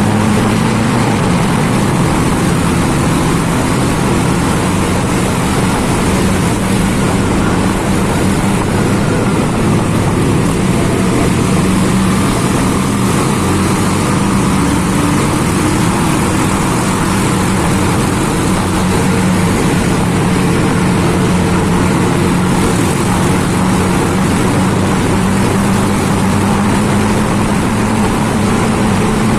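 Several large-displacement motorcycles riding together through a road tunnel, their engines running steadily and loud throughout.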